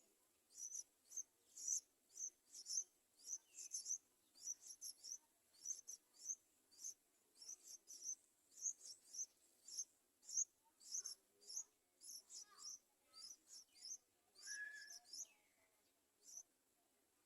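Yellow-vented bulbul nestlings begging: faint, short high-pitched chirps repeated about twice a second, with a few lower, sliding calls mixed in near the end.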